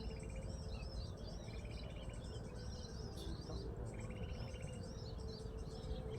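Songbird calls: a run of quick, arching high chirps, with a short rapid buzzy trill repeating about every two seconds.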